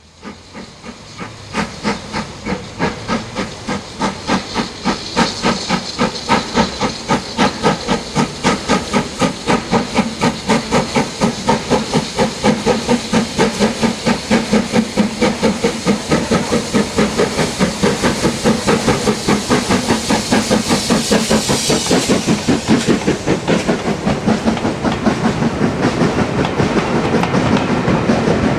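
Steam locomotive working hard as it pulls away: loud chuffs of exhaust over a steady hiss of steam, slow at first and quickening to about four beats a second as the train gathers speed.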